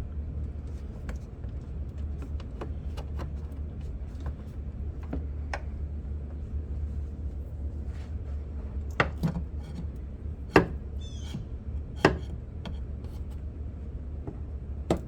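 Scattered clicks and knocks of hands working plastic headlight-assembly parts and electrical connectors loose, with a few sharper snaps about nine, ten and a half and twelve seconds in and a brief squeak of rubbing plastic. A steady low hum sits underneath.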